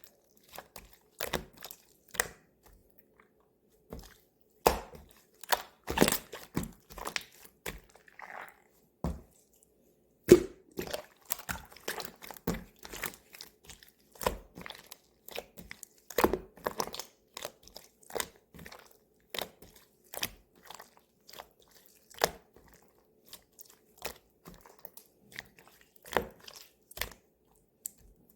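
Pink glitter slime being squished and worked by hand, giving irregular crunchy clicks and crackles with short pauses between them.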